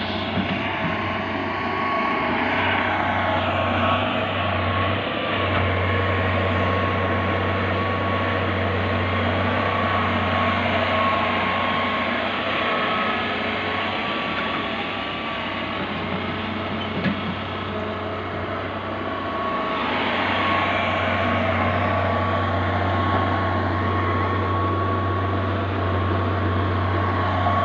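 Massey Ferguson 240 tractor's diesel engine running steadily, with an even drone and a steady whine on top, dipping slightly in level about halfway through.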